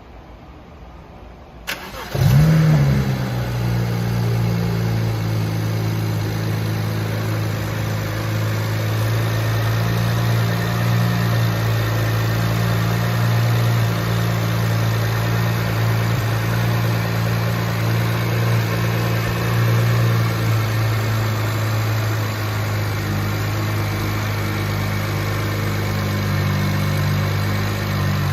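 2009 BMW 335i's twin-turbo 3.0-litre inline-six (N54) being started. The starter turns briefly and the engine catches about two seconds in, with a short flare of revs, then settles into a steady idle.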